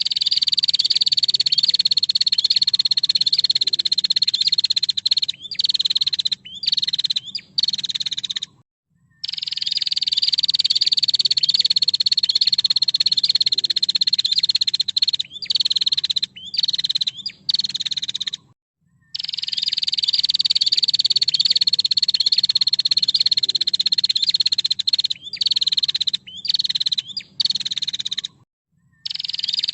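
Female prinia (prenjak) giving its long, fast rattling trill. It comes in three bouts, each falling slightly in pitch and ending in a few short broken notes, and the bouts repeat about every ten seconds.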